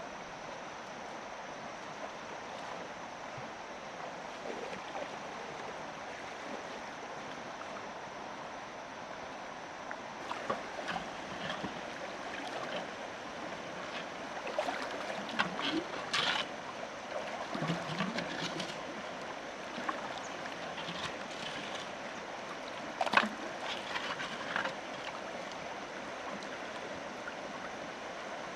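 Flowing river water running steadily, with irregular splashes and knocks through the middle stretch and one sharp knock late on.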